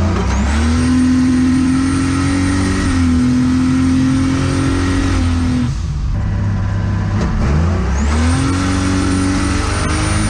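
Turbocharged GM Vortec 4200 inline-six engine pulling hard under acceleration, heard from inside the cabin. Its note climbs quickly and holds, backs off about six seconds in, then climbs again around eight seconds, with a high whine rising alongside each pull.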